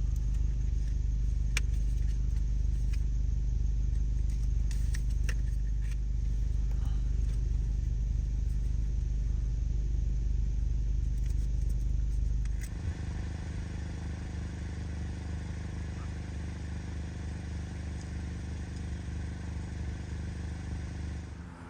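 A steady engine-like drone with a strong low hum. About 13 seconds in it drops abruptly to a quieter, steady hum.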